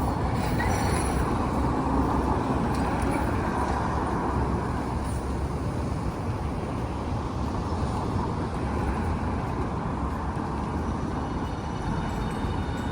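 Steady street traffic noise from passing road vehicles, an even rumble and hiss without sharp events.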